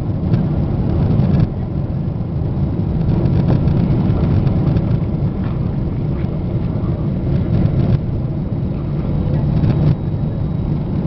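Steady low roar of a Boeing 777's engines and rushing air, heard inside the passenger cabin on final approach with the landing gear down.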